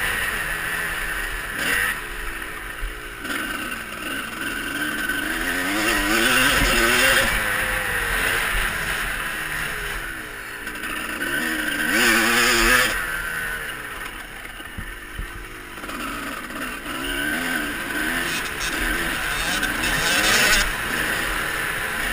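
Motocross motorcycle engines revving up and down around the track, the pitch rising and falling as they accelerate and back off, swelling louder several times as bikes come close.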